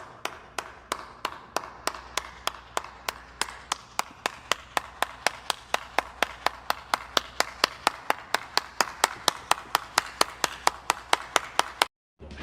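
Hand clapping: a long, even run of single sharp claps that speeds up slightly from about three to about four and a half a second, then stops suddenly near the end.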